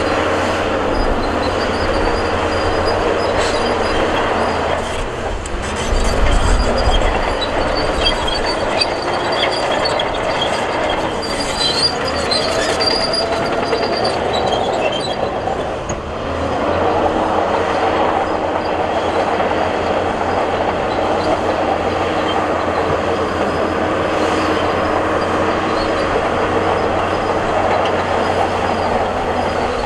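Crawler bulldozer working, its diesel engine running steadily while its steel tracks squeal and clank, with a surge of low rumble about six seconds in.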